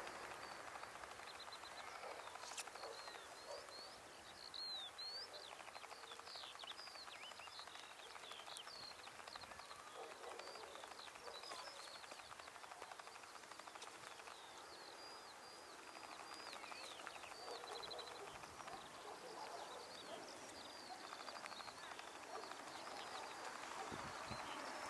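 Small birds chirping and trilling, many short high calls throughout, over a faint steady background hiss.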